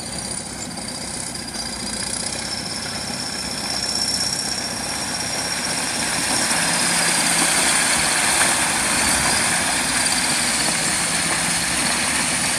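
A vehicle's engine running with a dense rushing noise, which grows louder about halfway through.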